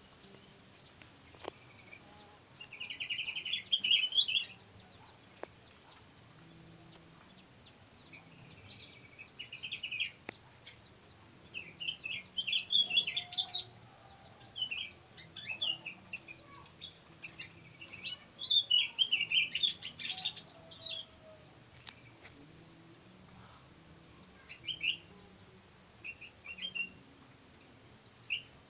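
Young sooty-headed bulbuls (kutilang) chirping back and forth in a duet: bursts of rapid, high twittering calls separated by short pauses, with a few single calls near the end.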